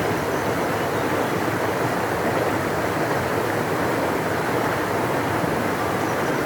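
Large river rushing steadily, a constant deep wash of water with no breaks.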